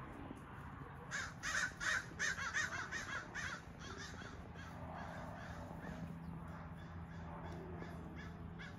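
A bird calling: a fast run of about a dozen loud, harsh calls from about one to three and a half seconds in, then a few fainter calls near the end, over a steady low hum.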